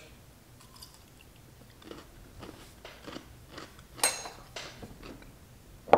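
Chewing and crunching on a kosher dill pickle spear: a string of short, wet crunches, with the loudest about four seconds in.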